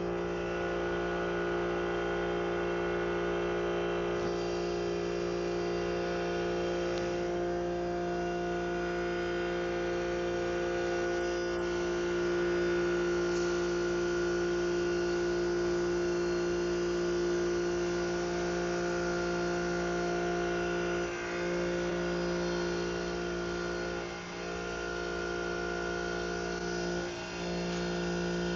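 HCK60Y CNC turning centre running through its turning passes: a steady hum and whine from the spindle and drives, dipping briefly three times near the end.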